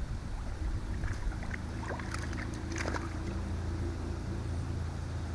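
A steady low mechanical hum, with a few short clicks about one, two and three seconds in.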